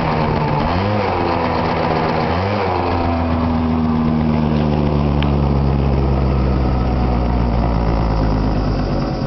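Yamaha Vino Classic 50cc two-stroke scooter engine, revved briefly twice near the start, then settling into a steady idle.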